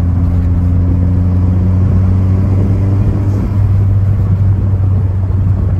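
Inside the cabin of a Volkswagen GTI driving: a steady low engine drone over road and tyre noise. The engine's upper tones drop away about three seconds in.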